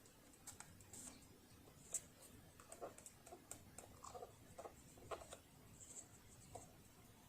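Faint, irregular clicks and light knocks from hands handling small parts and tools, with one sharper click about two seconds in.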